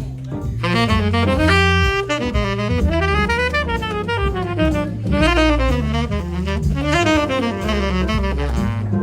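Tenor saxophone improvising a jazz solo in quick, flowing runs of notes over a low bass line.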